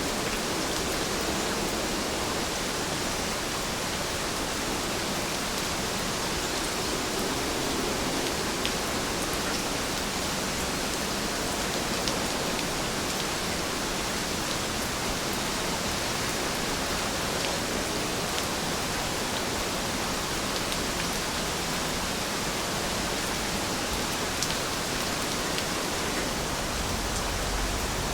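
Steady rain falling, an even hiss with scattered single drops ticking now and then.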